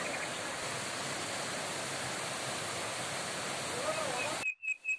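Waterfall rushing with a steady, even roar of falling water. It cuts off abruptly about half a second before the end, leaving quiet with a few short bird chirps.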